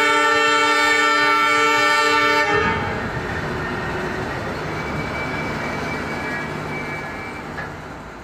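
A train horn sounds loudly for about the first two and a half seconds, a chord of several steady tones, over the rumble of double-decker passenger coaches rolling past. The rolling noise then goes on alone and fades toward the end.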